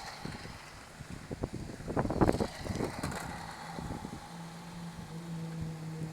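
Radio-controlled toy car driving past outdoors, with a louder rattling pass about two seconds in and a steady low hum from about four seconds on. Wind rumbles on the microphone throughout.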